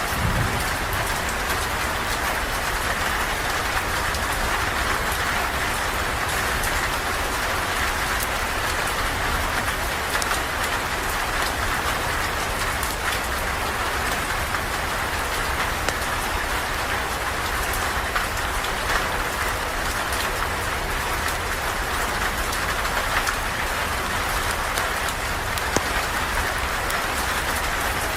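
Steady rain falling, an even, unbroken hiss, with faint scattered crackles of a campfire mixed in.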